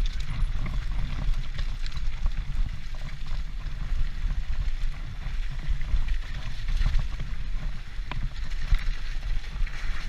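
Wind buffeting a helmet-mounted action camera's microphone while a mountain bike is ridden, with scattered rattles and knocks from the bike.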